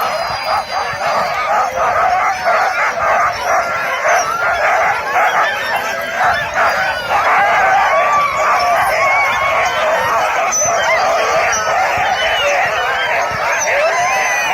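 A pack of sled huskies howling together, many voices overlapping without a break: the eager howling of dogs waiting to pull the sleds.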